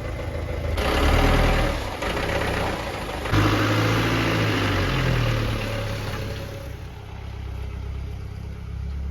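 Car engine running, rising in speed twice, about a second in and again around three seconds in, then easing back to a steady idle.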